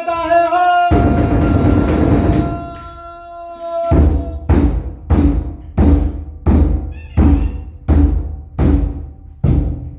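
Ceremonial music: a long, wavering horn note, with a heavy drum stroke about a second in, held for a few seconds and fading; from about four seconds in a large drum beats steadily, about three strokes every two seconds.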